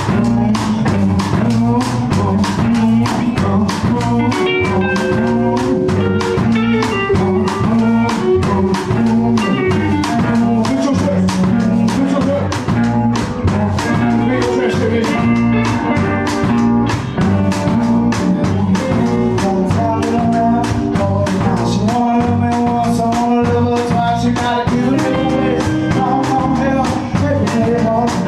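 Blues-rock band playing live without vocals: drum kit beating a steady rhythm under electric guitar and bass guitar. The full band comes in loud right at the start.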